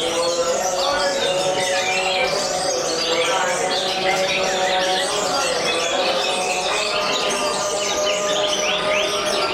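Several canaries singing at once: dense, fast trills and chirps without a break. Underneath runs background music with long held notes that change every second or two.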